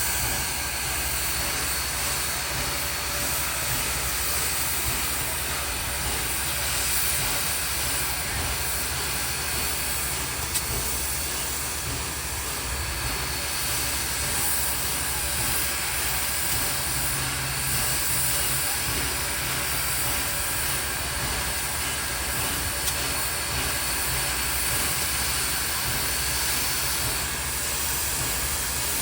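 A train rolling past, a steady rushing noise of wheels on rail with faint high steady tones.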